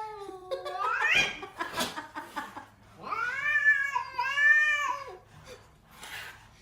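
A cat yowling in long drawn-out calls: one sweeps up in pitch about a second in, and a longer, wavering two-part yowl follows about three seconds in.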